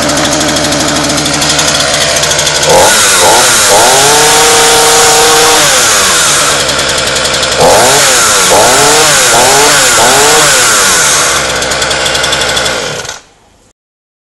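Petrol chainsaw's two-stroke engine, freshly started, running at idle, then revved up and held high for a couple of seconds. It settles, gives about five quick blips of the throttle, drops back to idle and cuts off abruptly near the end.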